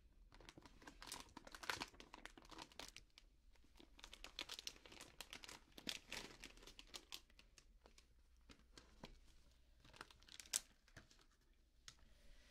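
Packaging of a convenience-store sandwich crinkling and tearing as it is handled and opened up close, in soft, irregular crackles with a few sharper ones.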